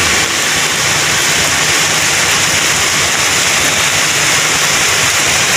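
Heavy rain pouring down: a loud, steady hiss, with a faint low hum underneath.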